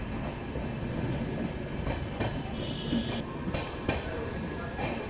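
Express passenger train running on the track with a steady rumble, its wheels clicking sharply over rail joints several times. A brief high squeal comes about three seconds in.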